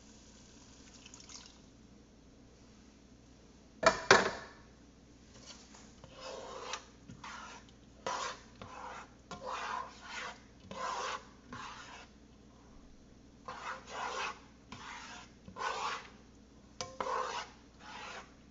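A couple of sharp knocks from a utensil against a pot, then cheese being grated by hand: a string of short rasping strokes, roughly one a second.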